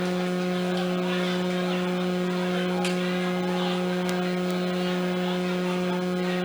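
Steady electrical hum, a low buzzing tone with a couple of higher overtones, unchanging in level. A couple of faint ticks are heard about three and four seconds in.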